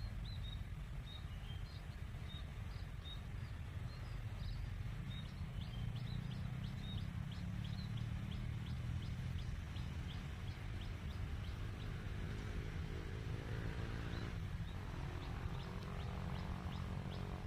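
Small birds chirping in quick repeated notes over a steady low rumble.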